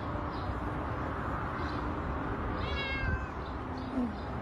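A cat meows once, a short high call about two and a half seconds in, over steady background noise.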